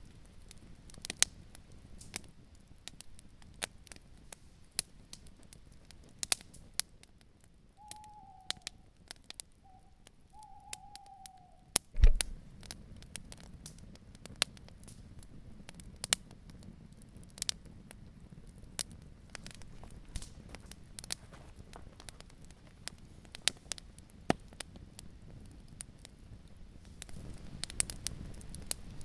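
Campfire crackling, with sharp pops scattered throughout. An owl hoots a few times, each call falling slightly in pitch, starting about eight seconds in. Just after the hoots comes a single loud thump, the loudest sound.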